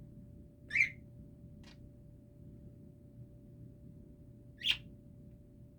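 Two short, sharp chirps from a pet parrot, about a second in and near the end, with a fainter chirp between them, over a faint steady hum.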